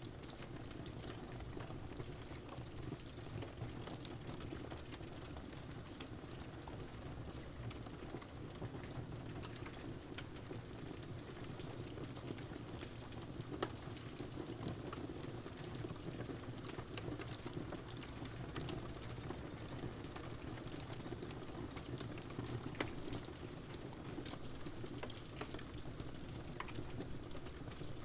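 Steady rain mixed with the crackling of a wood fire, small pops and snaps scattered through it, two sharper pops about halfway and near the end.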